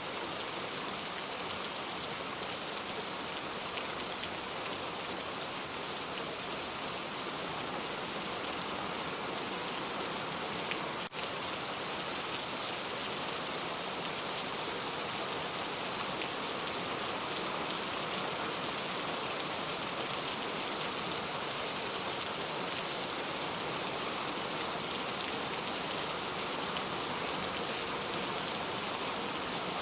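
Steady rain falling, an even hiss of drops, with a momentary dip about eleven seconds in.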